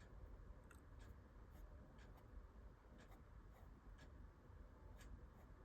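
Very faint scratching and light ticks of an alcohol blending marker (Stampin' Blends) being worked over cardstock while colouring.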